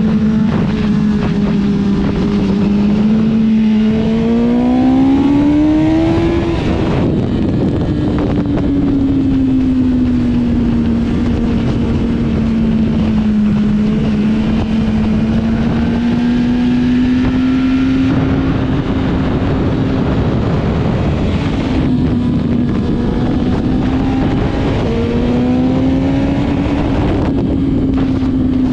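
Motorcycle engine under way with heavy wind rush. The engine pitch climbs for a couple of seconds about four seconds in, drops sharply around seven seconds, then rises and falls gently.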